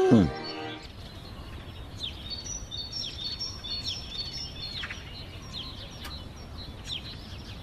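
The tail of a cow's moo falls away at the very start. Then small birds chirp repeatedly, short high calls over a steady hiss of outdoor background noise.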